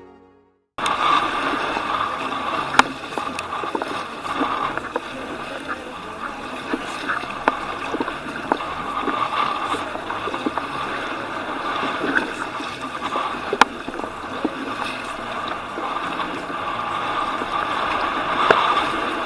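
Water sloshing and splashing against a kayak's hull as a steady churning noise, with scattered sharp knocks.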